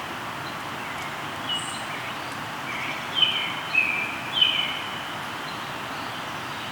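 River flowing steadily, with a songbird calling over it: a faint call about a second and a half in, then three loud whistled calls about half a second apart, each falling in pitch.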